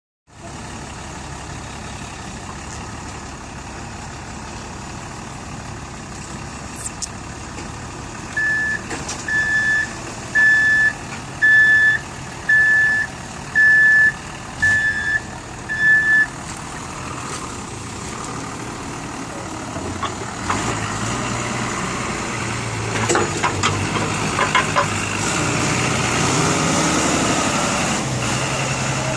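Truck engine running steadily while its reversing alarm sounds eight evenly spaced high beeps, about one a second, as the truck backs up; the engine grows louder near the end.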